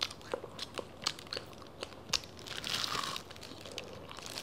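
Close-up eating sounds: a mouthful of chewy rice paper salad being chewed with many small irregular wet clicks, and the crinkle of a thin plastic food glove as the hand picks more from the bowl.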